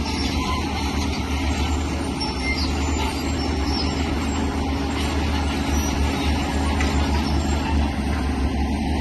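Diesel engine of heavy earthmoving machinery running steadily under work, with a strong low rumble and a dense rattling noise over it.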